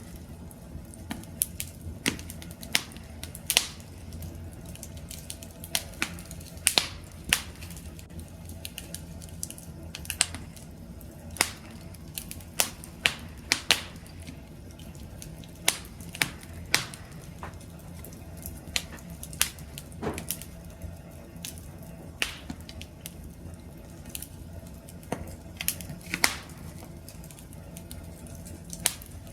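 Wood campfire crackling: irregular sharp pops and snaps, several every few seconds, over a low steady rumble of the burning fire.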